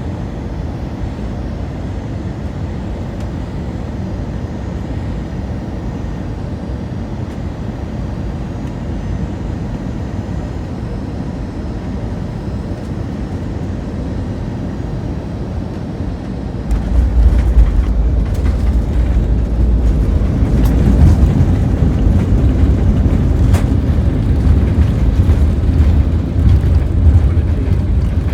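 Steady engine and airflow noise inside an Airbus A320 cabin. About two-thirds of the way through it jumps suddenly louder to a low rumble with rattling, the sound of the airliner touching down and rolling out on the runway.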